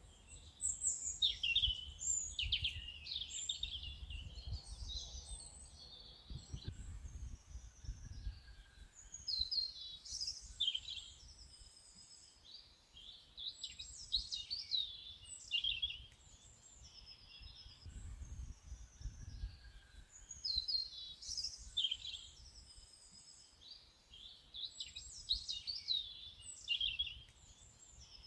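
Several songbirds singing and chirping at once, in quick overlapping phrases that run on without pause. A low rumble swells now and then beneath them.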